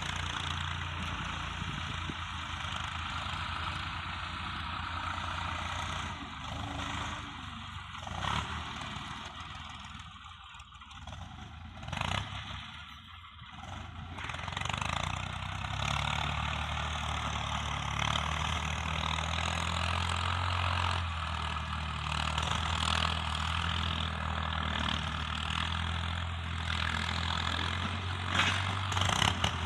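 Tractor engine running steadily while pulling a plough through the soil. The sound drops in level for a few seconds near the middle, then comes back steady with a clear low engine hum.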